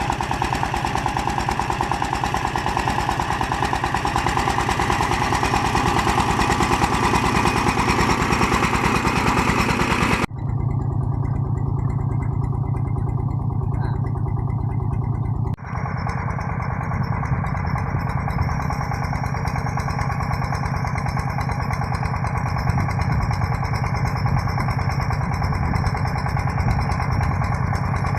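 Công nông farm truck's single-cylinder diesel engine running, with a fast, even chug of firing pulses. The sound changes abruptly about ten seconds in and again about fifteen seconds in, dulling and then changing again.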